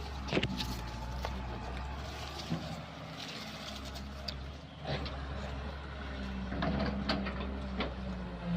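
Kobelco excavator's diesel engine running steadily, with several sharp knocks and clanks from the digging equipment near the start, about five seconds in and around seven seconds in.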